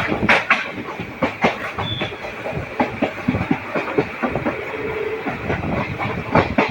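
Passenger train running along the track: a steady rumble and hiss with irregular clicks and knocks as the wheels pass over rail joints.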